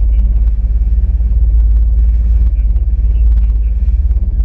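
Sea-Doo RXP-X 260 jet ski under way, a loud steady low rumble of engine and water that holds level throughout.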